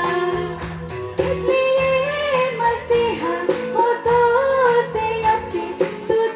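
Music: female voices singing a melody over instrumental accompaniment with a steady beat.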